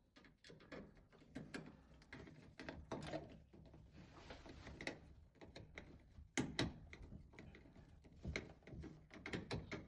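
Scattered light clicks and knocks of parts and tools being handled while a washing machine's hot water solenoid valve is fitted back in place, with a few louder knocks about six and a half seconds in.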